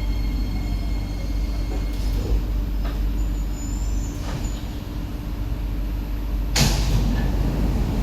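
SMRT C151B train car rumbling low and steadily as it comes to rest at a station, then a short, loud hiss of compressed air from the train's pneumatic system about six and a half seconds in.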